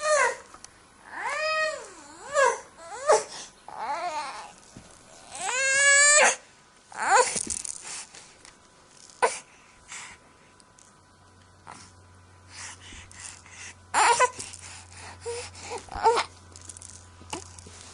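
Infant crying: a run of wavering wails that rise and fall in pitch, the longest and loudest about six seconds in, then easing into shorter, scattered fussing cries and babbling sounds.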